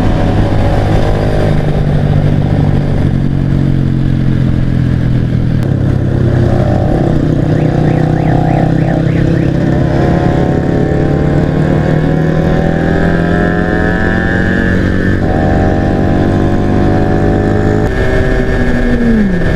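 Yamaha SS110's small engine running steadily at highway cruising speed, with the engines of other motorcycles riding alongside. Their tones rise slowly in pitch partway through, and near the end one tone drops quickly in pitch as a bike goes past.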